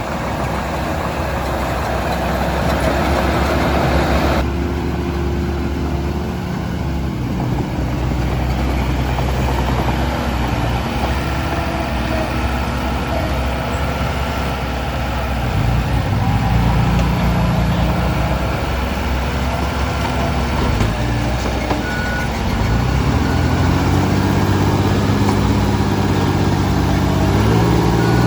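Heavy diesel construction-machinery engine running and revving up and down under load, with a few short reversing beeps near the end.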